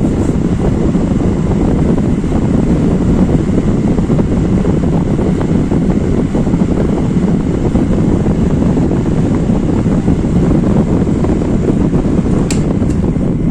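12-inch Katsu industrial exhaust fan, driven by a used air-conditioner outdoor fan motor, running steadily with a loud rush of air. A single click comes near the end.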